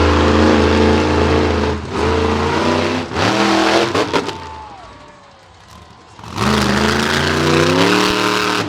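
Monster truck engine revving hard in bursts, its pitch rising on each run-up. It drops away about four seconds in, then climbs in another rising rev from about six and a half seconds in that falls off at the end.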